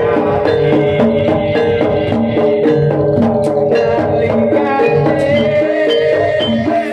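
Traditional Javanese music played live: a steady, repeating pattern of struck pitched notes with lower notes beneath.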